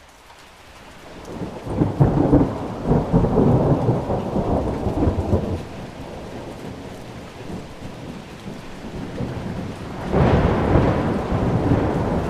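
Thunderstorm: steady rain with two rolls of thunder. The first builds about a second in and rumbles loudest for a few seconds before fading; the second breaks in suddenly near the end.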